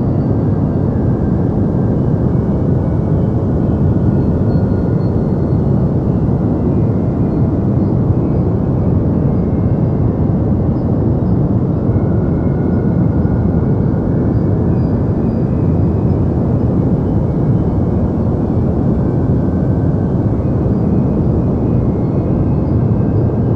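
Steady deep noise, a continuous low rushing hiss weighted toward the bass with the highs rolled off, unchanging throughout.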